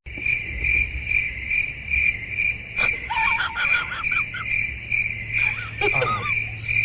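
Cricket chirping steadily, about three chirps a second. A few short high squeaks come in the middle, and another brief call near the end.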